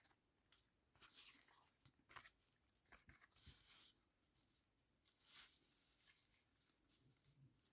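Faint rustling and tearing of paper being handled close by, in several short scrapes spread through the quiet.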